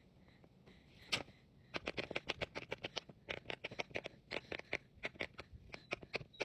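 Silicone bubbles of a giant pop-it fidget toy being pressed in quick succession: a rapid string of sharp pops, about five a second, starting about a second in.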